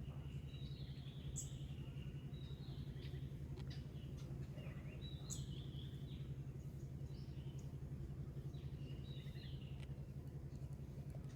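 Steady low background hum with clusters of high-pitched chirping calls over it, about a second in, around five seconds in, and again around nine seconds in.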